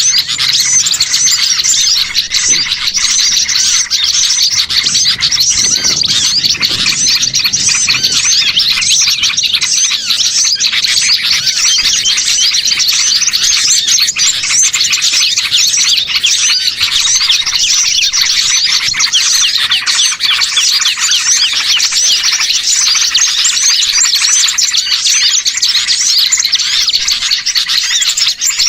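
Dense, continuous chattering of many small songbirds calling over one another, a flurry of high chirps with no pause. It is a bird-trapping lure recording meant to sound like a noisy flock of small birds, which draws wild birds in.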